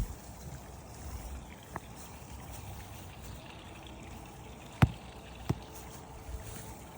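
Water trickling steadily, with two sharp clicks about five seconds in.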